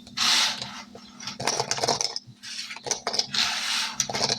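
Dominoes clattering and clicking against each other as they are scooped up and put away, in three short bursts.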